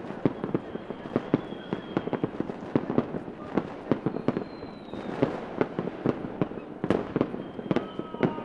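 Fireworks going off: an uneven, rapid string of sharp bangs and pops, with the faint whistles of rockets sliding down in pitch, most clearly near the end.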